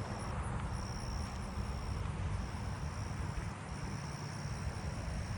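A cricket trilling, taken for a southeastern field cricket: a steady high trill in long stretches of one to two seconds, broken by short gaps, over a low background rumble.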